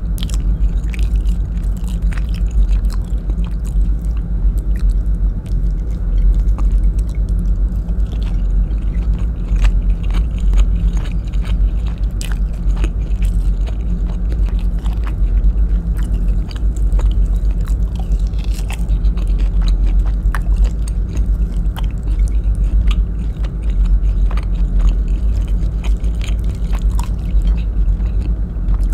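Close-miked ASMR mukbang chewing of stewed beef and rice, eaten by hand, with many small sharp mouth clicks over a steady low hum.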